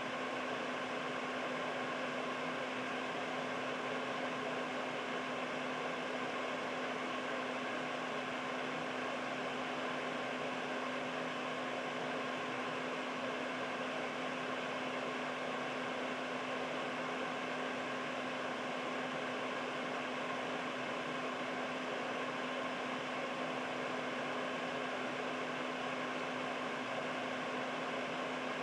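Air purifier's fan running steadily: an even rush of air with a constant low hum underneath.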